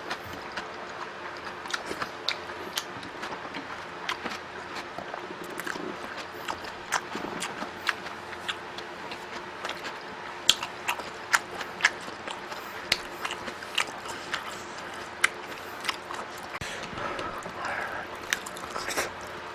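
A person chewing and biting food close to the microphone, with many short sharp wet clicks and crackles throughout; the loudest bites come in the middle.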